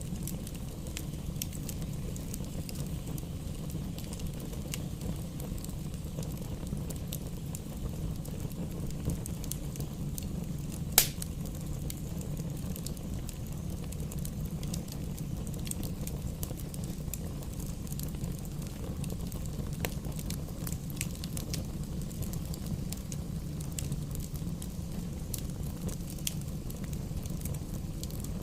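Wood fire burning in a fireplace: a steady low rumble with scattered crackles of the burning firewood, and one sharp loud pop about eleven seconds in.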